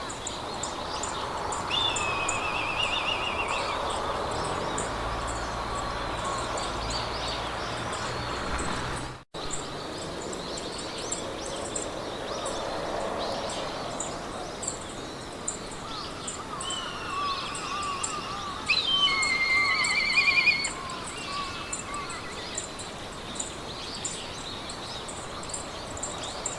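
Meadow ambience: several songbirds singing trills and whistles, loudest about two and three seconds in and again near twenty seconds, over a steady hiss of wind in the grass and a high-pitched insect chirping about twice a second. The sound cuts out for an instant about nine seconds in.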